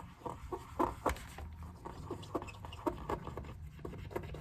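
A quick, irregular run of light clicks and taps from handling MacBook keycaps and keyboard parts, the sharpest two about a second in.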